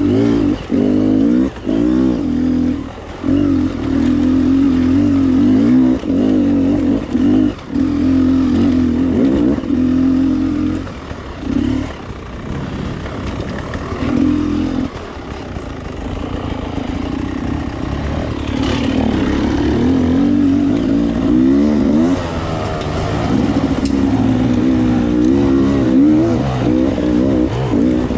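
Enduro motorcycle engine revving, the throttle opened and chopped in short bursts, then running lower and quieter for a while in the middle before revving up and down again near the end.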